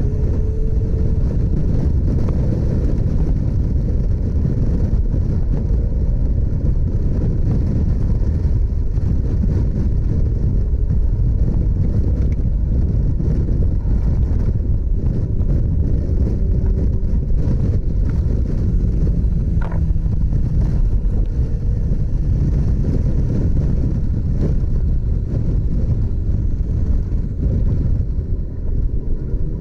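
Motorcycle engine running on the move under a heavy low wind rumble, its pitch drifting up and down a little with speed. A brief high chirp sounds about two-thirds of the way through.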